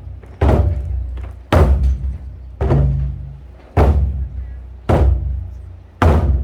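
Large Korean drums (buk) struck in heavy, evenly spaced beats about once a second, six in all. Each booming stroke rings out low and dies away before the next.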